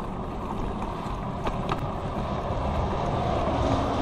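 Wind buffeting the microphone, a steady low rumble that grows louder near the end, with a couple of faint ticks.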